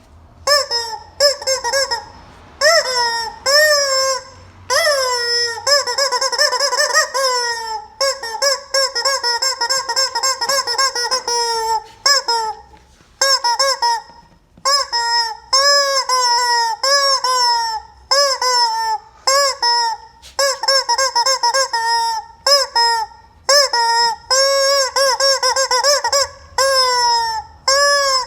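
Rubber chicken squeeze toy squawking over and over: many short honking squeals that bend up and down in pitch, with a few longer held screeches, such as one lasting several seconds about eight seconds in.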